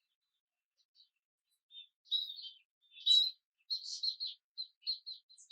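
Scaly-breasted munias calling: short, high chirps, few at first, then a quick run of them from about two seconds in.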